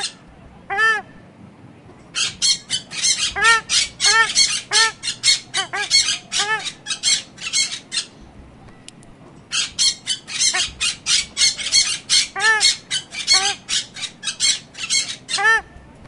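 Birds squawking: quick runs of short, harsh calls, several a second, in two long bouts separated by a pause of about a second and a half halfway through.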